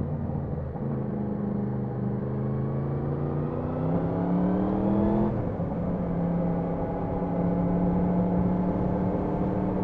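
Yamaha MT-10 SP's crossplane inline-four engine accelerating, its pitch rising steadily for about four seconds. About five seconds in the pitch drops sharply at an upshift, and the engine then runs on at a steady, even pitch.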